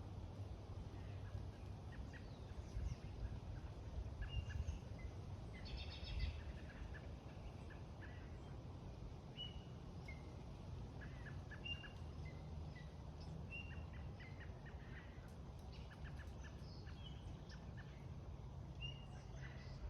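Wild birds chirping in short, scattered calls over a low steady rumble of background noise.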